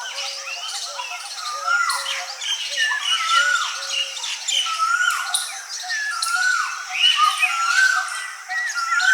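A chorus of several wild birds singing in dry forest. One bird repeats an arched, rising-then-falling whistled note about once a second, while other birds chirp and call higher and faster over it.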